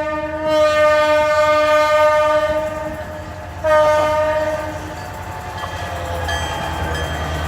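Locomotive air horn sounding a long blast of about three seconds, then a shorter second blast, with the low rumble of the train building underneath afterwards.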